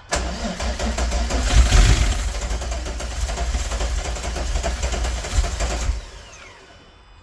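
VR6 engine turning over and running unevenly for about six seconds, then cutting off with a short falling whine as it spins down. The car has a crank-no-start fault and runs only poorly with its MAF sensor unplugged.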